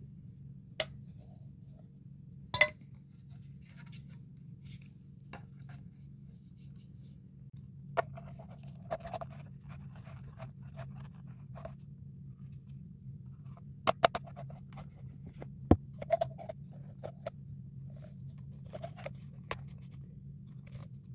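Handling noises: scattered sharp clicks and knocks with light scraping and rustling between them, over a low steady hum.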